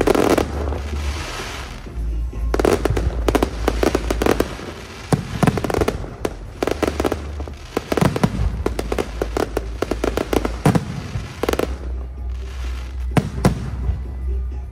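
Aerial fireworks going off in repeated volleys of sharp bangs and crackling.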